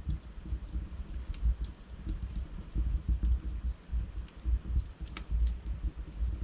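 Wood fire burning in a fireplace: a low fluttering rumble of flames with scattered sharp crackles and pops from the logs, one louder pop about five seconds in.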